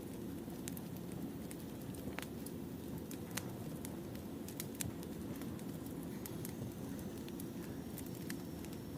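Firewood burning in a campfire, crackling: irregular sharp pops and snaps over a steady low rush of flame.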